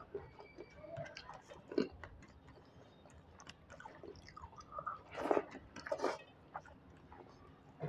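Chewing of a mouthful of rice and fish curry: irregular wet smacks and clicks of the mouth, loudest about 2 s in and again around 5 to 6 s in.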